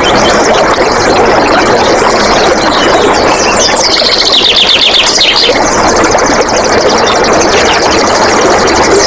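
Flowing water rushing steadily, with wild birds singing over it in rapid high trills of repeated short notes, about three seconds in and again near the end.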